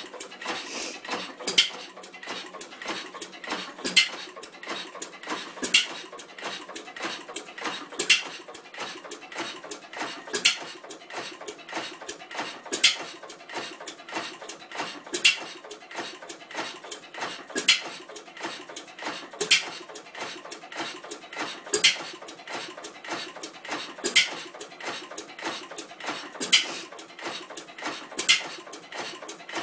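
1910 Gardner 1F open-crank stationary gas engine running, with a sharp loud beat about every two seconds and lighter mechanical clicking and tapping between the beats.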